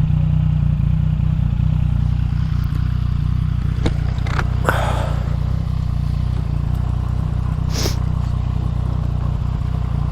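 Yamaha MT-09's three-cylinder engine idling steadily. A few sharp clicks and a short scraping rustle come about halfway through.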